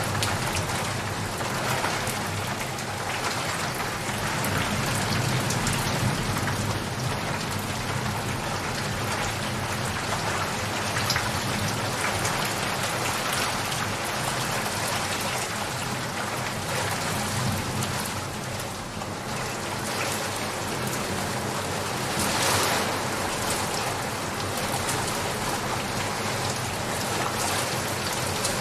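Steady, heavy rain falling and pattering on surfaces, with a brief louder swell about three quarters of the way through.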